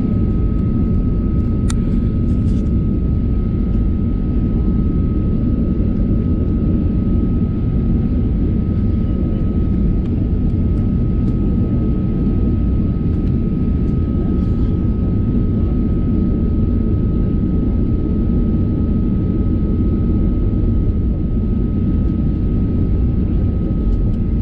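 Steady engine and cabin noise heard from inside a Boeing 737-800, its two CFM56-7B engines running at an even, low power with a deep rumble and a thin steady whine. A single click about two seconds in.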